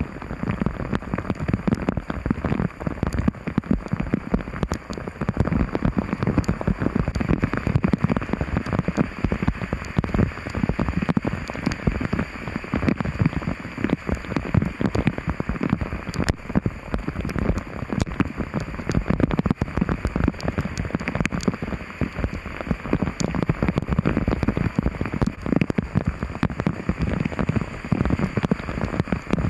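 Heavy rain pouring down, a dense patter of countless drops striking a hard surface without let-up.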